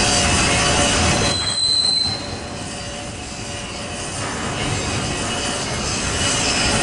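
Freight cars of a BNSF double-stack intermodal train rolling past, wheels squealing with steady high tones and a sharper squeal about a second and a half in. The noise dips for a couple of seconds, then builds again.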